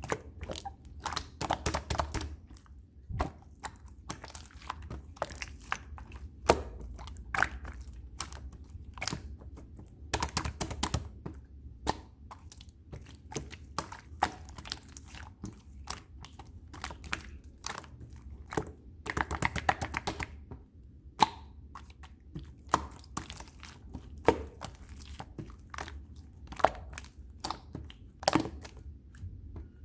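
Red clear slime being squished and pressed by hand, making sticky clicks and pops, with quick flurries of popping about two seconds in, around ten seconds, and around nineteen seconds.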